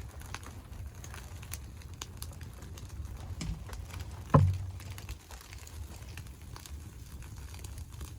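Wood fire crackling, with scattered sharp pops over a low steady rumble. A single loud thump comes a little over four seconds in.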